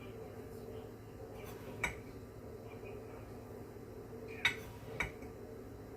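A measuring cup clinking against a bowl three times as sugar is scooped and poured, the second knock loudest, over a steady low hum.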